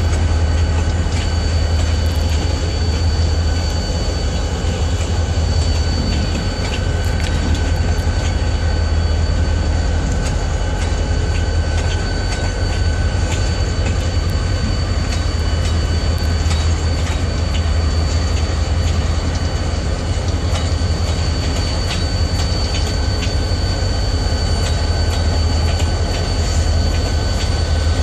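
Freight wagons (grain hoppers and boxcars) rolling past close by: a continuous heavy rumble of steel wheels on rail, with frequent clicks over the rail joints and a thin, steady, high wheel squeal.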